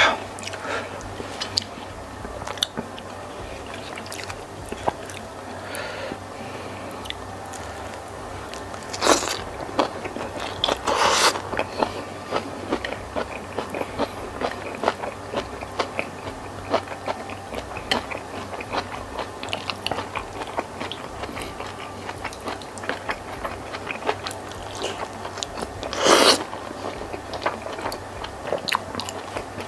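Close-miked mouth sounds of a person eating cuttlefish and rice by hand: steady chewing with many small wet clicks and smacks, and a few louder bites.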